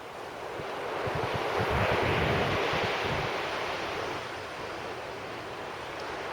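Sea waves breaking and washing up the beach, the surge swelling to a peak about two seconds in and then easing off, with wind buffeting the microphone.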